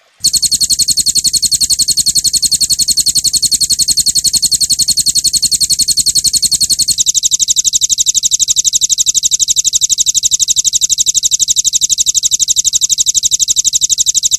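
Recorded songbird 'tembakan' (shooting) call: a rapid, machine-regular run of short high notes, about ten a second, as used in birdsong master tracks for training caged songbirds. The note changes about seven seconds in, and the run cuts off abruptly near the end.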